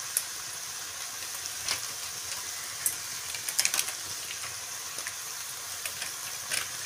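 Mushroom and potato curry frying in a wok, a steady sizzling hiss with scattered crackles and light clicks, the chilli powder just added on top.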